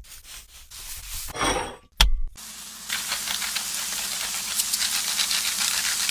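A few light scrapes, a sharp knock about two seconds in, then a steady sizzle with small crackles: chicken frying in hot oil.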